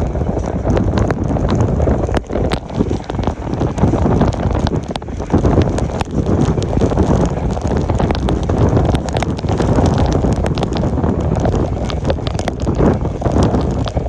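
Passenger train running at speed, its wheels clattering on the rails in quick irregular clicks, under heavy wind buffeting the microphone.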